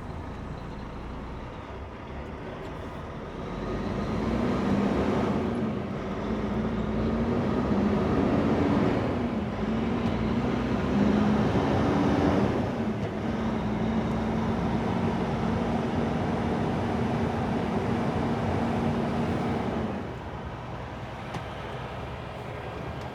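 Truck diesel engine heard from inside the cab as the truck pulls away. About three seconds in the engine note grows louder, its pitch rises and falls several times, then holds steady, and about twenty seconds in it drops back to a quieter hum.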